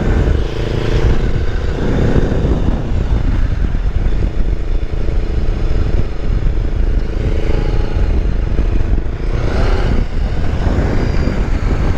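Kawasaki Versys X300 motorcycle riding at road speed: heavy wind buffeting on the microphone over the steady note of its parallel-twin engine.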